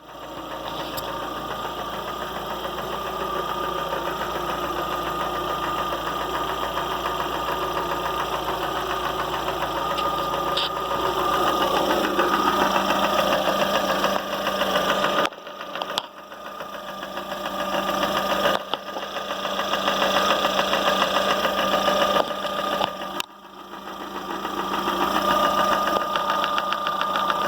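Lada Vesta engine running with a rapid, steady ticking knock from the top end, which the owner takes for a camshaft knock that shows once the engine is warm. The level drops sharply a few times and climbs back.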